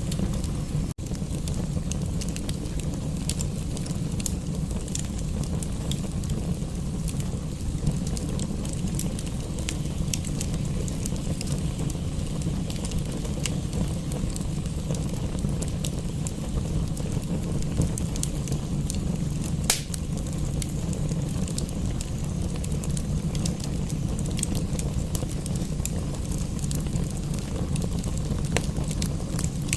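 Wood fire crackling, with scattered small pops and one sharper pop about twenty seconds in, over a steady low rumble and rain.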